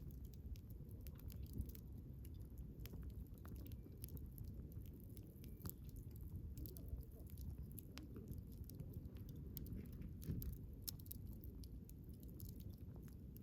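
Wood fire crackling: irregular small pops and snaps over a low, steady rumble of burning, with one louder pop about ten seconds in.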